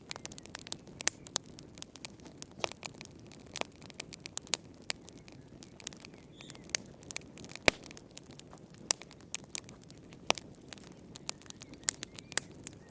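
Wood fire crackling in a fireplace: irregular sharp pops and snaps over a low steady hiss of burning.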